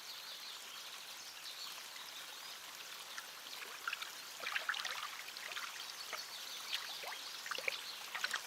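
Water trickling and splashing steadily, with irregular sharp clicks and crackles from about four seconds in.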